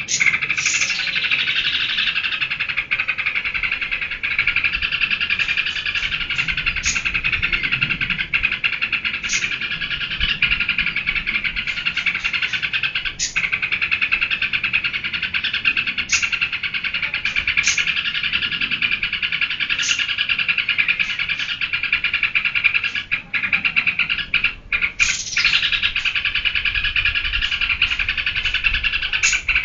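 Yellow-vented bulbul (trucuk) singing without a break in a fast, dense chatter, with short sharp high notes every second or two.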